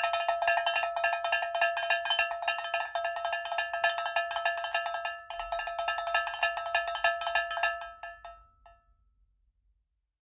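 Rapid, even strikes on a ringing metal object, many per second, each ringing at the same few pitches. The strikes break off briefly about five seconds in, resume, and die away near the end.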